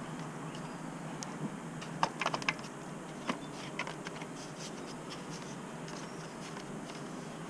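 Light clicks and taps of small parts or tools being handled, a quick cluster about two seconds in and a few scattered ones after, over a steady low hum.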